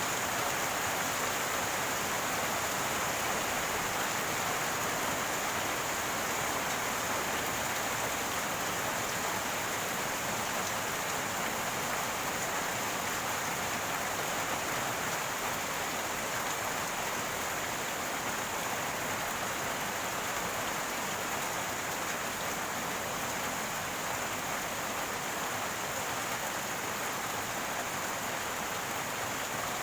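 Rainwater running and gurgling in a steady, unbroken rush.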